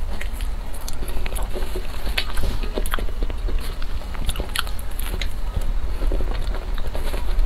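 Close-miked biting and chewing of a soft cream-filled cake, with many small wet mouth clicks and crackles scattered irregularly, over a steady low hum.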